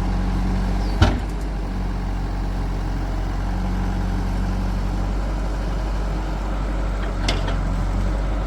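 Heavy diesel engine running steadily, with a sharp knock about a second in and a lighter one near the end.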